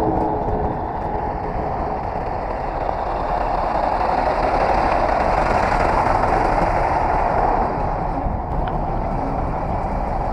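A heavy vehicle running, a steady rumbling noise that grows a little louder around the middle and eases near the end.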